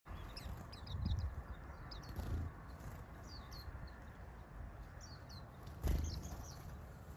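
Small birds calling in clusters of short, quick chirps over a steady outdoor background, with a few dull low thumps about one, two and six seconds in.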